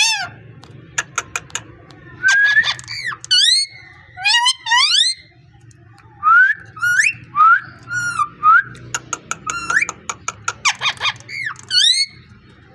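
Pet parrot whistling and clicking: a string of short whistled calls that swoop up and down in pitch, broken by quick runs of sharp clicks.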